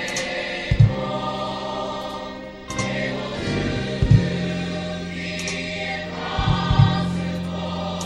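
Gospel worship music: a choir singing held chords over steady bass notes, with a few sharp beats now and then.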